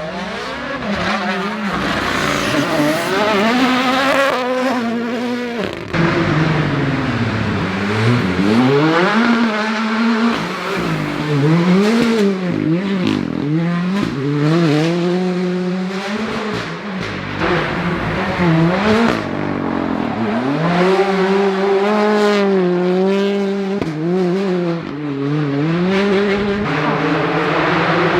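Rally car engines revving hard on a gravel forest stage, the pitch climbing and dropping repeatedly through gear changes and lifts for corners.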